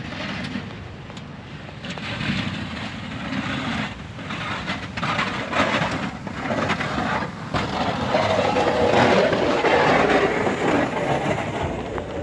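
Half-ton pickup plow truck running while plowing snow: a rough, noisy vehicle sound that grows louder from about two seconds in.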